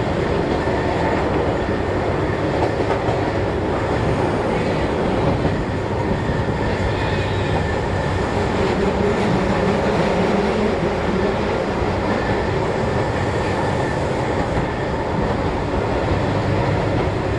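Keihan Ishiyama-Sakamoto Line train running between stations, heard from inside the car: a steady rumble of wheels on the rails.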